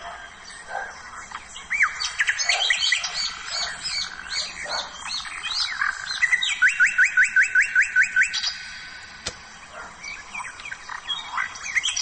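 Several songbirds chirping and singing, with short sweeping whistled notes. About halfway through, one bird gives a fast even run of about nine repeated notes.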